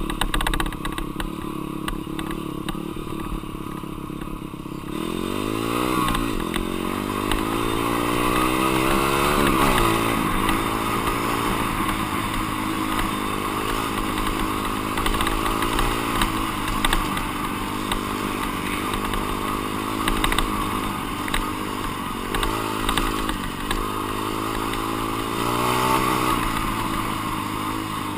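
Dirt bike engine being ridden: it runs steadily for a few seconds, then the revs climb sharply about five seconds in and keep rising and falling as the bike accelerates and shifts.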